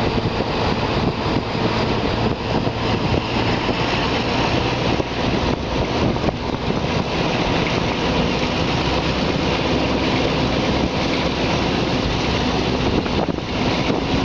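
Passenger train pulling out of a station and gathering speed, heard from a carriage window: a steady rumble of wheels on rails with faint repeated clicks.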